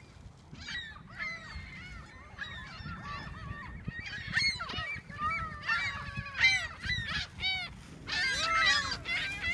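A flock of seagulls calling over one another, many overlapping squawks and cries that build up and grow denser in the second half as they crowd in to be fed.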